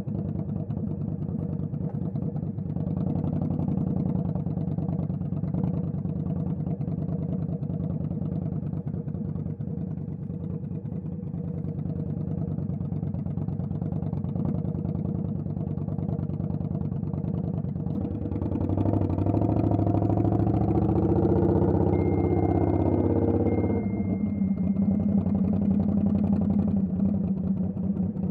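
Vehicle engines idling steadily. About two-thirds of the way in, a louder engine swells up and its pitch rises and falls for several seconds, with a thin steady whistle near its end, then it settles back to a steady idle.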